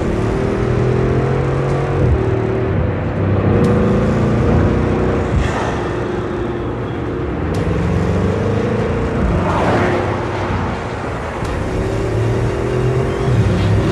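A car engine running at highway speed with steady road noise, its pitch drifting and breaking every couple of seconds. About ten seconds in, a rushing whoosh swells and fades.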